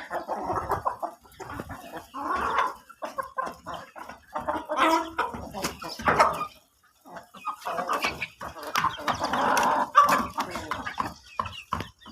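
Chickens clucking and calling in a busy, irregular stream of short calls, with a brief lull about seven seconds in.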